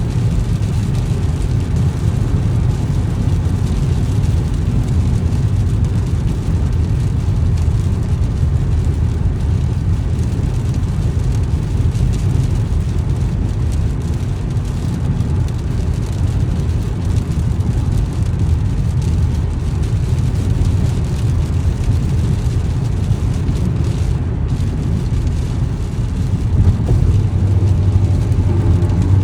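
Car driving on a wet road: a steady low rumble of tyre and engine noise that grows a little louder near the end.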